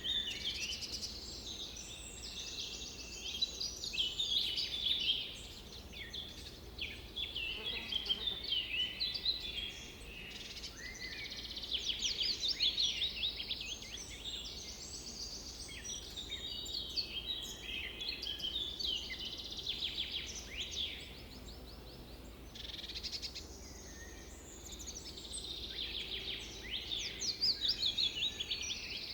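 Several birds singing and calling at once, an overlapping chorus of chirps and rapid trills that goes on without a break, over a faint low background rumble.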